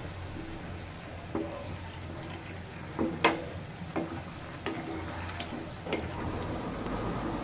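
Spatula knocking and scraping against a pan as sauce is stirred with a cornflour slurry to thicken it: about seven sharp knocks, the loudest about three seconds in, over a steady low hum.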